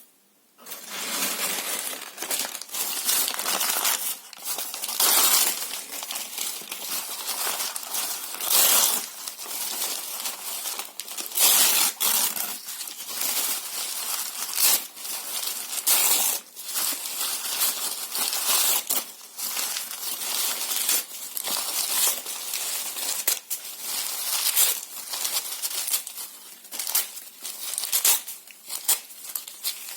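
Paper and cardboard being torn and crumpled by hand, in a dense, continuous crackling with frequent louder rips. It starts about a second in, after a brief hush.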